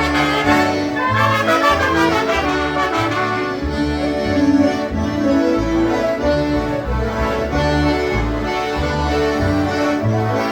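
A polka band led by concertinas playing a lively polka, with brass and a bass line alternating on the beat.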